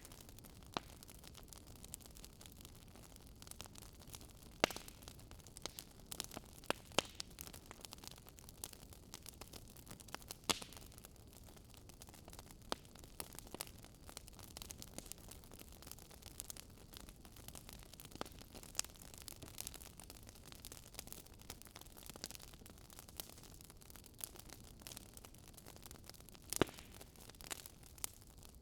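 Wood fire burning in a fireplace, crackling with irregular sharp pops and snaps over a faint steady hiss, a few pops much louder than the rest.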